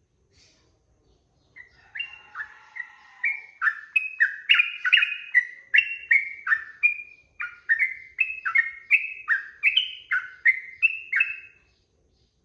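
Sooty-headed bulbul (trucukan) singing a long, fast run of clear whistled notes, about two a second, each slurring up or down. The song starts about a second and a half in and stops shortly before the end.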